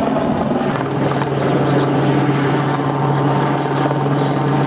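Radio-controlled 3D helicopter flying, its rotor and motor running with a steady hum that settles in about a second in.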